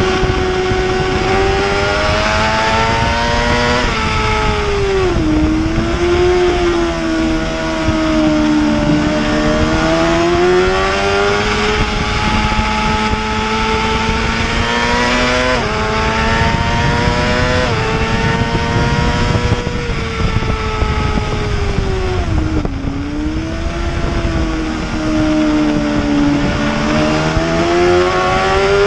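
Heavyweight superbike racing motorcycle engine under hard throttle, its pitch climbing and then stepping abruptly several times as gears change, with two deeper dips as it slows for corners.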